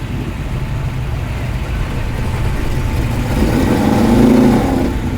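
Ford XW Falcon's engine running steadily with a low rumble as the car rolls in at low speed.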